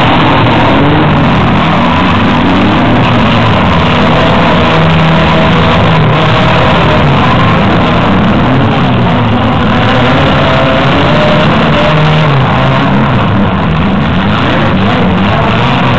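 Engines of several compact demolition-derby cars running and revving over one another, loud and unbroken, with pitches that keep rising and falling.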